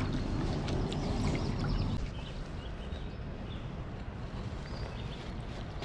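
Steady low outdoor background noise, heavier for the first two seconds and then easing, with a few faint bird chirps.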